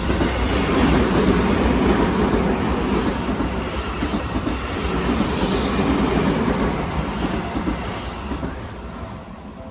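Seibu 20000 series electric commuter train passing close by at a level crossing: a loud rumble of wheels on the rails that fades from about six seconds in, with a brief high-pitched sound about five seconds in.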